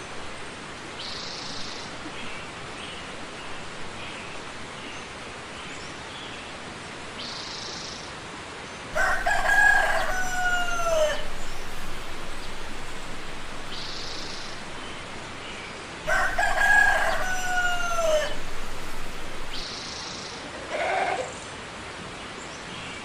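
A rooster crowing twice, each crow a long call that drops in pitch at its end, with faint short high bird calls between the crows.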